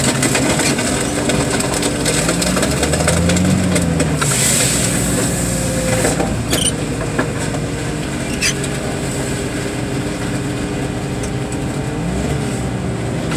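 Heavy machinery engine running steadily, with its pitch rising and falling a few times as it works under load. A few brief knocks sound through it.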